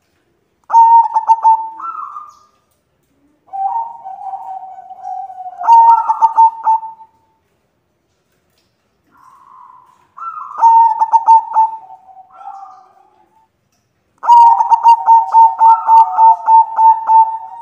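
White zebra dove (perkutut) cooing in repeated phrases of fast, stuttering notes with short silences between them; the last phrase, starting about 14 seconds in, is a long run of rapid beats.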